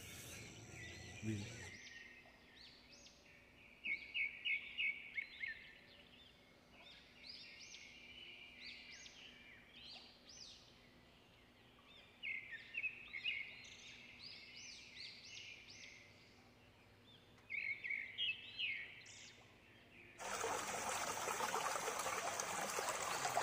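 Birds singing: repeated runs of quick, high chirping notes, the loudest runs about 4, 12 and 17 seconds in. About 20 seconds in it cuts to a steady rush of flowing water.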